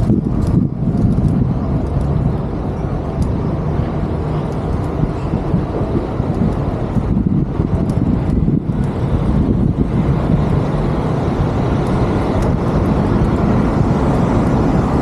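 Steady low rumble of road traffic with wind buffeting the microphone while riding.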